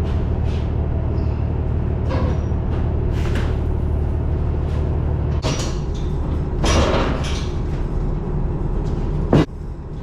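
Box truck engine running steadily, with scattered clicks and knocks over it and one sharp, loud knock near the end.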